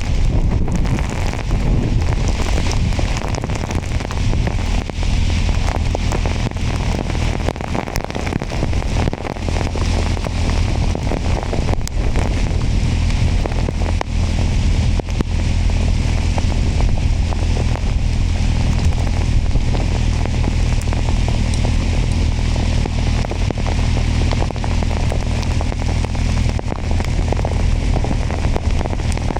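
Kawasaki motorcycle engine running at a steady cruise under heavy wind rush on the microphone, with rain crackling against it as many fine ticks.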